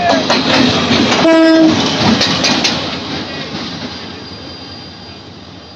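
Train passing with wheels clacking over rail joints and a short horn blast about a second in; the sound fades away over the second half.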